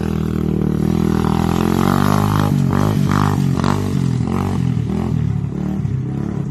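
Tao DB17 125cc four-stroke single-cylinder dirt bike engine running at a steady speed. From about two and a half seconds in, its pitch dips and rises several times as the throttle is worked.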